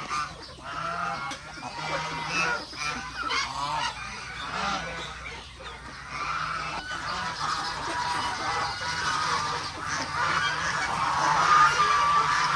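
A flock of farm geese honking continuously, many calls overlapping, with ducks and chickens among them; the honking grows louder near the end.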